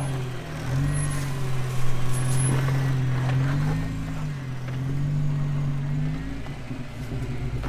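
Jeep engine running at low revs as the Jeep crawls up a steep off-road climb. The engine note rises briefly about halfway through, then eases back.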